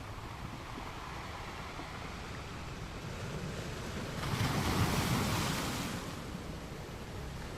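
Ocean waves washing onto a beach, a steady surf hiss with one wave swelling louder about four seconds in and then drawing back.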